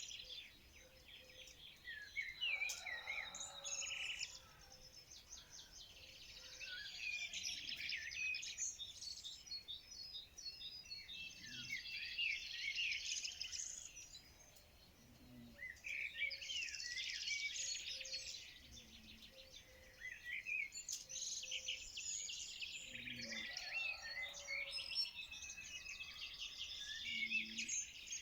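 Birds chirping and singing in dense bouts of quick, high notes, with short lulls between the bouts.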